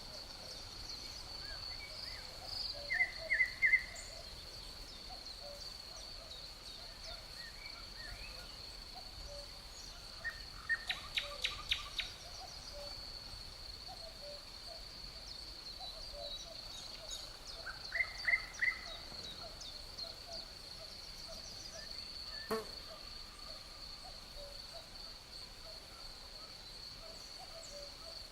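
Nature soundscape: a steady high-pitched insect trill runs throughout, with birds calling over it. Quick bursts of three or four clear notes come a few times, and one louder rapid series of about seven notes comes near the middle. A single sharp click sounds a little after two-thirds of the way through.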